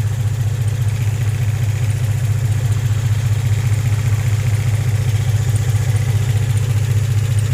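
Infiniti G35's 3.5-litre V6 idling steadily with a fast, even low pulse. The engine has a random misfire and runs rough.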